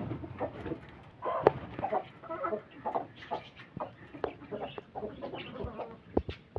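Hens clucking in short, irregular calls, with a few sharp clicks among them.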